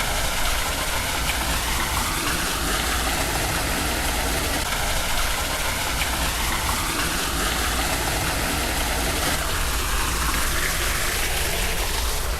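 Steady rushing noise without a break, with faint voices in the background.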